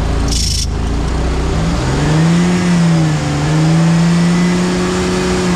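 Off-road competition four-wheel-drive truck's engine revving up about two seconds in and held at high revs with small dips, under load as its wheels spin and dig into the dirt rather than climb. A short hiss about half a second in.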